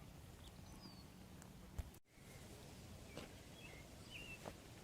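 Quiet outdoor background with a few faint, short bird chirps in the second half. There is a soft thump near the middle, followed by a brief dropout.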